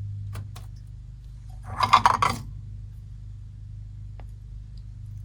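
A brief cluster of clinks and rattles about two seconds in, as small knick-knacks are handled and knocked together, over a steady low hum.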